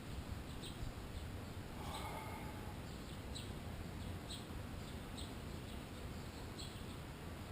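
Bird chirping: short high chirps repeated about once or twice a second, over a low steady outdoor rumble.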